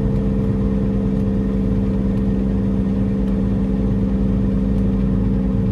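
Peterbilt semi truck's diesel engine running steadily under way, a constant even drone.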